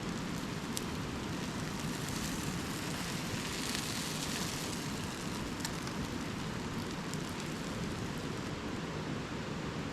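A grilled cheese sandwich frying in butter in a pan over a campfire: a steady sizzle, with a few sharp crackles from the fire.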